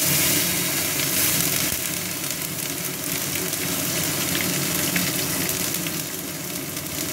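Chopped tomato sizzling in hot mustard oil with panch phoron: a steady frying hiss with fine crackles that eases a little toward the end.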